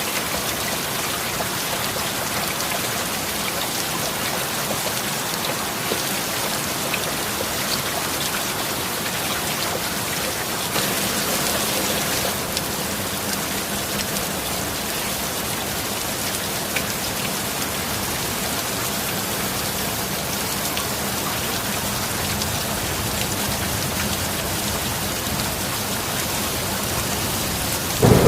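Steady, heavy rain falling without a break, with a loud thunderclap breaking in at the very end.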